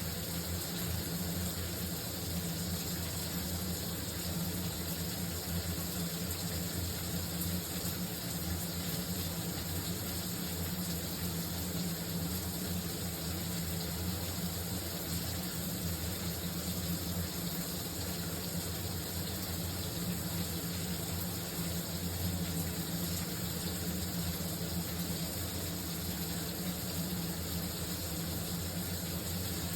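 Shower running steadily: an even, continuous spray of water.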